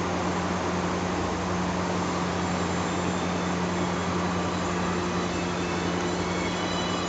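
Steady machine noise at a constant level, with a strong low hum and no break or change.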